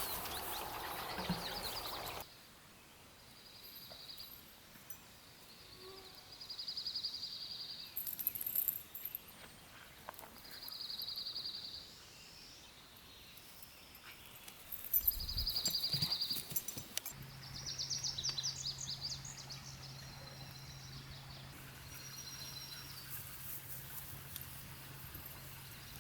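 Quiet outdoor ambience with a series of short, high, fast-pulsed trills, each about a second long and coming every few seconds. A low steady hum comes in about two-thirds of the way through.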